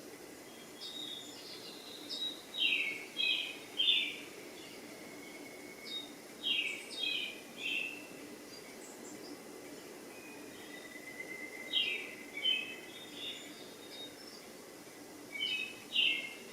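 A songbird singing short phrases of three or four quick notes, repeated about every four seconds, over a faint low steady hum.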